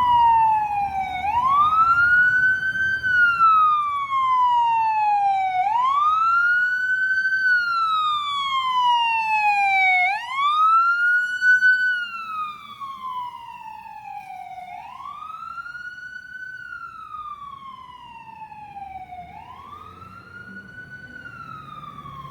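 Emergency vehicle siren on wail, its pitch rising quickly and falling slowly in cycles about every four and a half seconds. It is loud at first and drops to a fainter level about twelve seconds in, still wailing.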